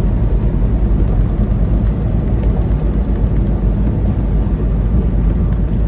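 Steady low drone of a semi truck on the highway, heard from inside the cab: diesel engine and road noise at cruising speed.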